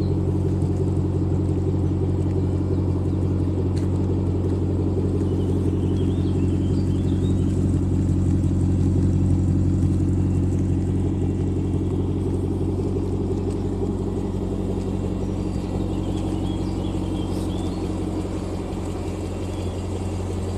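Car engine idling steadily with a low rumble, getting slightly louder about halfway through.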